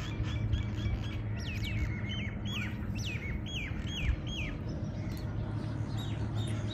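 Small birds chirping outdoors: many short calls that sweep down in pitch, several a second, overlapping, over a low steady background rumble.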